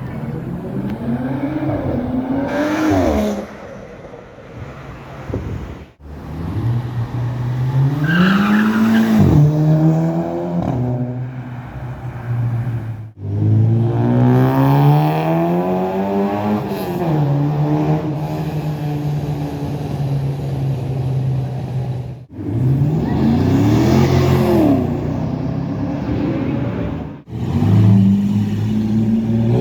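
Sports cars accelerating hard past on a street in a run of short separate clips: each engine note climbs in pitch, drops with a gear change or sweeps down as the car goes by, with a steady engine drone between the pulls.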